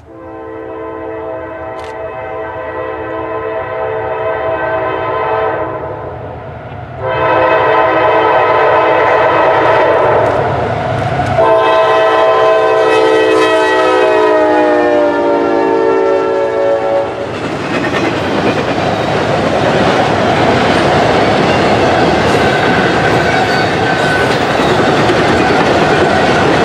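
CSX locomotive air horn blowing three long blasts of several notes at once, the last one dropping in pitch as the locomotive passes. About seventeen seconds in, it gives way to the loud rumble and clatter of the train's wheels going by.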